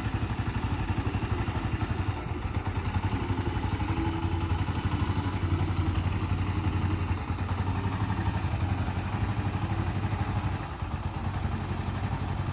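Bajaj Boxer X150's single-cylinder four-stroke engine idling steadily, with a fast, even putter and a light mechanical clatter.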